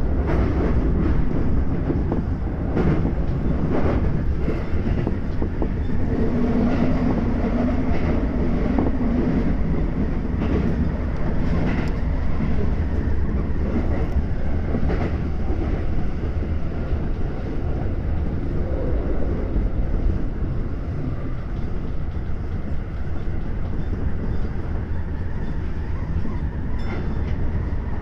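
17000 series commuter electric train running at speed, heard from inside the leading car: a steady rumble of wheels on rail, with a few sharp clicks from the wheels passing over rail joints.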